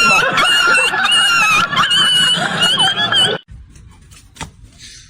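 A dog whining in loud, high-pitched, wavering cries that break every half second or so, cut off abruptly about three and a half seconds in.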